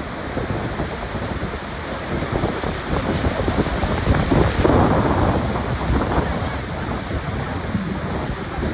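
Steady roar of a large waterfall with spray falling like heavy rain and wind buffeting the microphone, swelling about halfway through.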